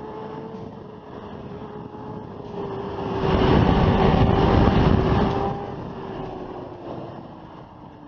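Motorcycle engine running at a steady, slightly falling pitch. A loud rushing noise swells for about two seconds in the middle, then fades.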